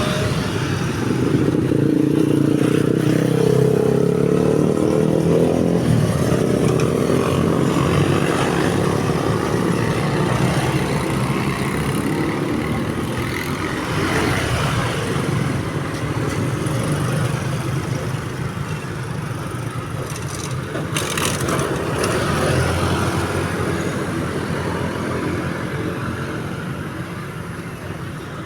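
Road traffic passing: car and motorcycle engines going by. One engine passes close in the first few seconds with a slightly falling pitch, then the traffic sound slowly fades.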